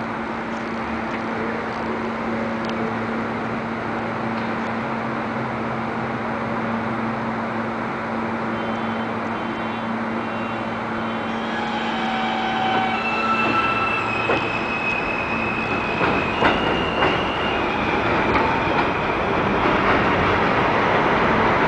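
R160A subway train on an elevated line: a steady electrical hum, then the propulsion whining in a series of separate tones at changing pitches. Wheel noise grows louder in the second half, with a few sharp clacks over the rail joints.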